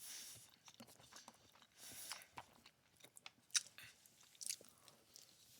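Faint, close-miked chewing and lip-smacking of someone eating chicken alfredo penne pasta, with a few sharp mouth clicks, the loudest about three and a half seconds in.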